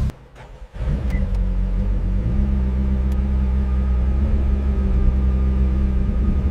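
Car engine running steadily with a low rumble, starting up again after a brief drop in sound just after the start.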